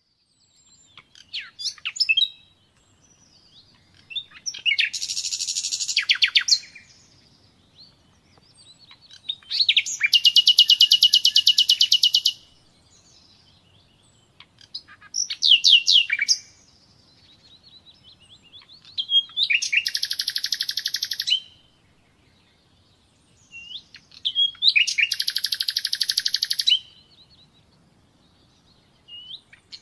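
Common nightingale singing in separate phrases with pauses between them: four long, rapid, buzzing trills of about two to three seconds each, mixed with shorter sweeping whistled notes.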